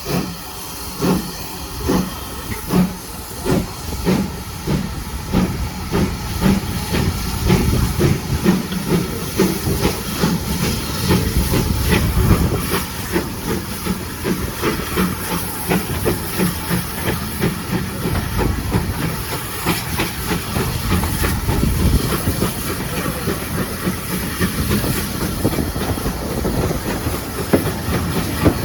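Steam locomotive pulling away: its exhaust beats start about one a second and quicken steadily as the train gathers speed, over a continuous hiss of steam.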